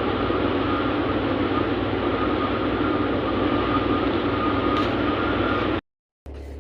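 Steady engine and road noise of a heavy truck on the move, with a faint steady whine over it. It cuts off abruptly near the end; after a short gap, a quieter steady hum begins.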